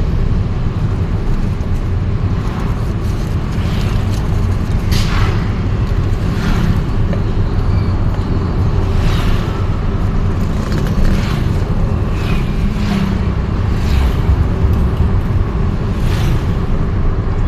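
Vehicle riding through city traffic: a steady low rumble, with a few brief sharper sounds now and then.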